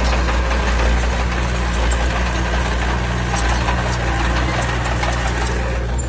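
Heavy diesel engine of earthmoving machinery running steadily, with scattered light clatter over the low rumble.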